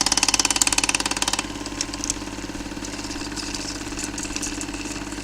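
Car engine running: a loud, fast, even pulsing for the first second and a half, then settling into a quieter, steady idle.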